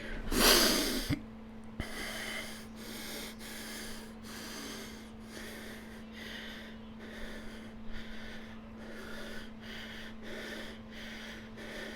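A person breathing quickly and rhythmically, about two breaths a second, after one louder, sharper breath about half a second in. A steady low electrical hum runs underneath.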